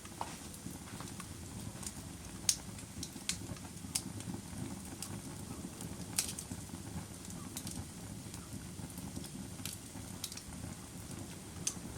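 Fire crackling: sharp pops and snaps scattered irregularly over a steady low rumble, with a few louder pops.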